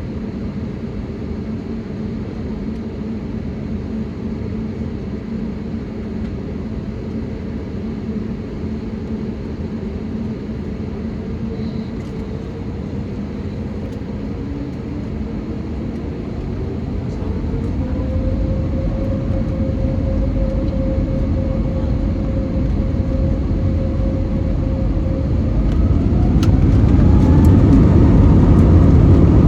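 Airbus A320neo's CFM LEAP-1A turbofan engines heard from inside the cabin, running with a steady hum, then spooling up: the engine whine rises in pitch and grows louder about halfway through, holds steady, and climbs again near the end as thrust is advanced.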